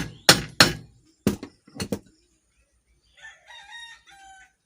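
A run of sharp hammer blows in the first two seconds, driving a ceiling fan's ball bearing out of its wax-packed housing. Near the end comes a quieter, drawn-out animal call.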